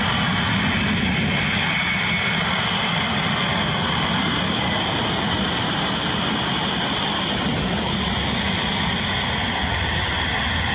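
Boeing 767's jet engines running at high power in reverse thrust on the landing roll: a steady, loud rushing noise with a few high whining tones held throughout.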